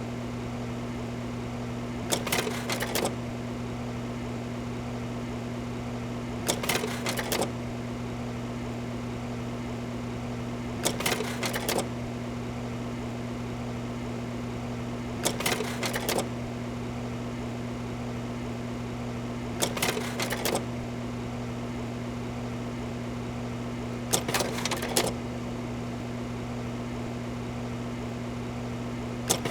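Steady low electrical hum, with a short burst of rapid mechanical clicking about a second long repeating regularly every four and a half seconds.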